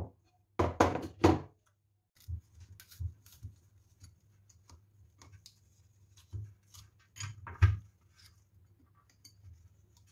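A series of knocks and light clinks from household objects being handled and set down. The loudest are three close knocks about a second in and another near the end.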